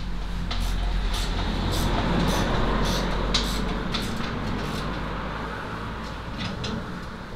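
Spanners and metal parts clinking and tapping as engine-mount bolts are worked, over a low rumble that swells over the first couple of seconds and then fades.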